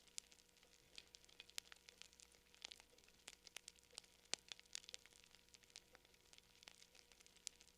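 Wood campfire crackling: quiet, irregular sharp pops and snaps of burning wood, several a second, with one louder pop a little past halfway.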